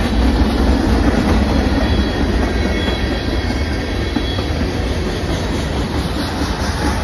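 Freight train's tank cars and boxcars rolling past, a steady rumble of steel wheels on the rails, with a faint high wheel squeal around the middle.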